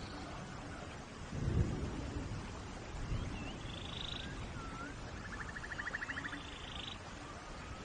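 Steady rain with a low rumble of thunder about a second and a half in. Over it, animal calls: short whistled slurs and a buzzy trill in the middle stretch.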